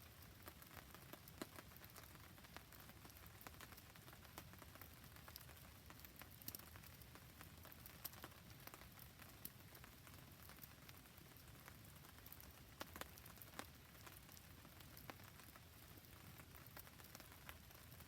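Faint steady rain together with a small campfire burning, with scattered sharp ticks throughout.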